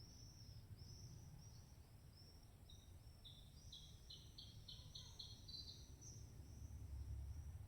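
Faint birdsong: repeated short high chirps, joined about three seconds in by a quick run of seven or so evenly spaced notes, over a low wind rumble.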